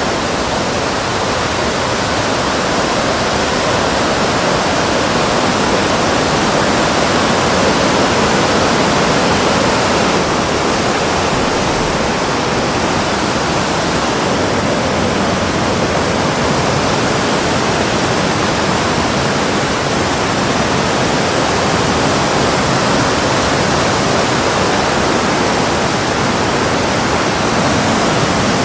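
Loud, steady rush of water with no breaks.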